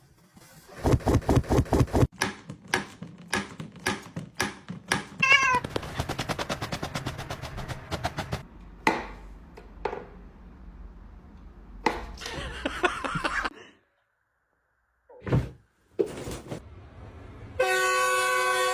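Cats meowing among a string of thumps and knocks, the sounds changing every few seconds. A steady ringing tone starts near the end.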